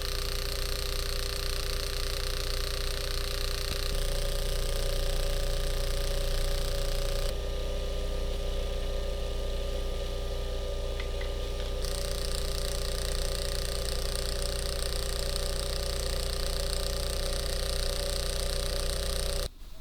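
Steady electric hum of a small machine, with a high hiss above it; the tone shifts abruptly a few times.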